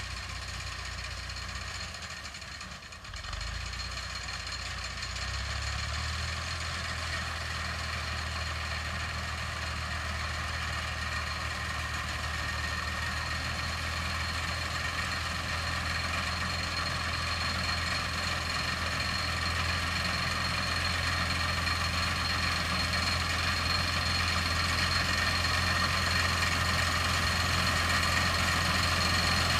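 Tractor diesel engine running steadily, with a brief dip a few seconds in, then slowly growing louder.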